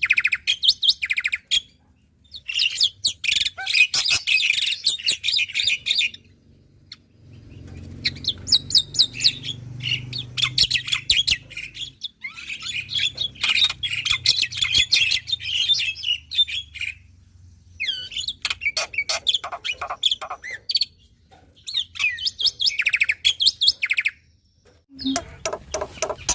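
Black-winged starling (jalak putih) singing in a string of loud bouts of rapid clicking and whistled notes, with short pauses between the bouts.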